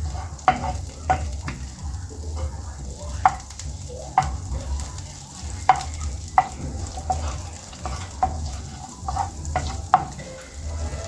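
Butter melting and sizzling in a frying pan while a utensil stirs it, knocking against the pan with about a dozen sharp, irregular clicks. A steady low hum runs underneath.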